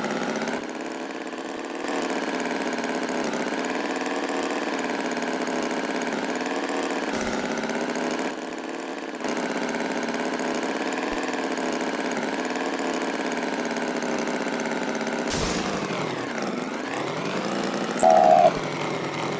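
A steady engine running with a slowly wavering pitch, dipping briefly twice, with a short loud beep near the end.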